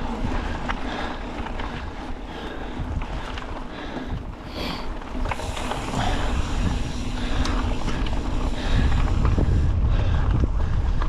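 Wind buffeting the GoPro's microphone: a steady rough rumble that grows heavier and louder about two-thirds of the way in.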